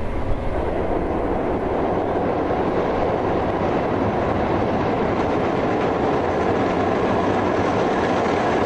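Freight train running, a steady unchanging noise of locomotives and wagons.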